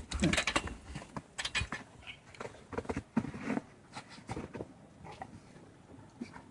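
Two dogs scrambling and moving about: irregular scuffs, clicks and patters.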